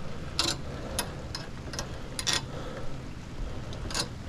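Wrench work on the bolts of an antenna pole mount: scattered light metallic clicks and ticks at an irregular pace over a steady low background rumble.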